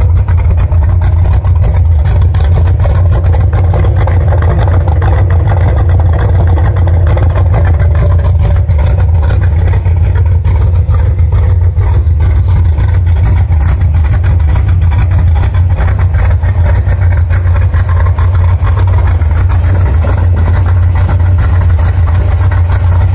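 1982 Ford Mustang GT's small-block Ford V8 idling steadily and loudly, with no revving.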